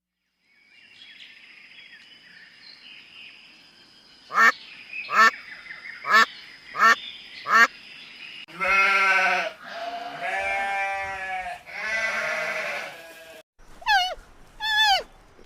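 A duck quacking five times in quick succession, then three long, wavering bleats. Near the end come two short calls that fall in pitch.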